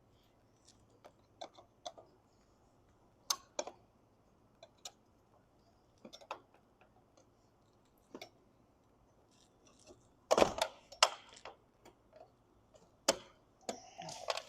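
Irregular, scattered clicks and knocks of hand work on the camper's roof fittings around the old TV antenna. A louder flurry of knocks comes about ten seconds in and one sharp knock near the end.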